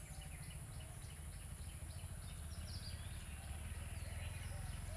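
Birds chirping in the background, many short repeated calls, over a low steady hum and a faint high steady whine.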